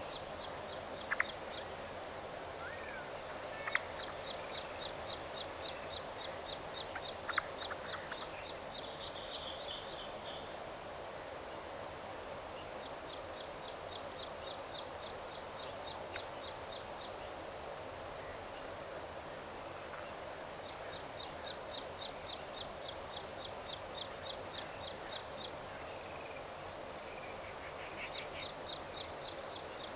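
Evening insect chorus over a monsoon paddy field. A high, steady pulsing trill runs throughout, while bursts of rapid ticking several seconds long come and go about every eight seconds, over a dense background chorus. There are a few brief chirps in the first several seconds.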